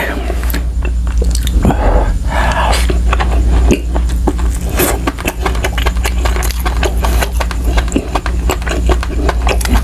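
Close-miked chewing of a mouthful of yellowfin tuna roe adobo: many small mouth clicks and smacks in an uneven run, over a steady low hum.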